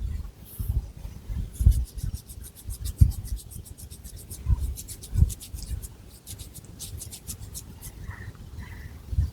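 Long fingernails scratching through long hair and across the scalp in rapid, rhythmic strokes, with a few dull low thumps.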